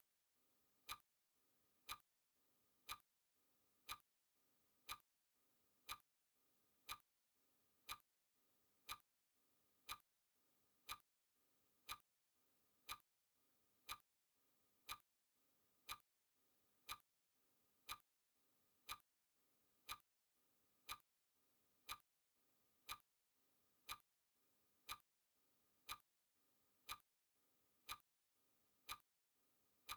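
Faint clock-style ticking sound effect, one sharp tick every second, steady and even, counting off the seconds of a countdown timer.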